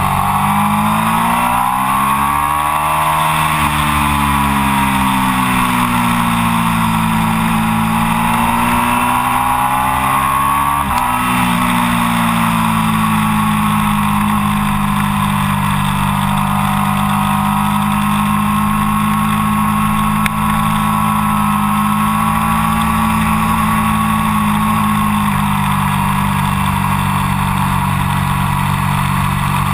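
Triumph Daytona 675's inline three-cylinder engine with Arrow exhaust, pulling hard on track: the revs rise, ease off, climb again and drop sharply about eleven seconds in at an upshift, then hold fairly steady. Wind rush on the microphone underneath.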